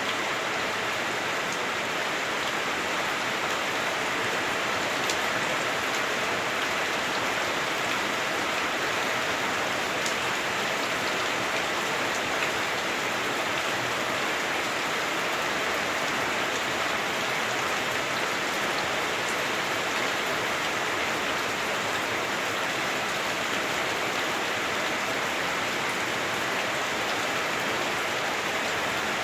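Heavy rain drumming on a house roof, heard from inside the house: a steady, even hiss with a few sharper drop ticks here and there.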